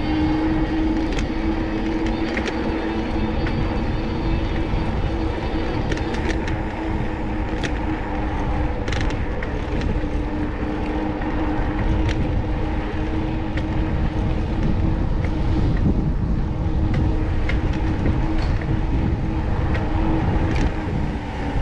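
Riding noise on a moving bicycle: low rumbling road and wind noise under a steady hum, with scattered light ticks. The hum falls in pitch near the end.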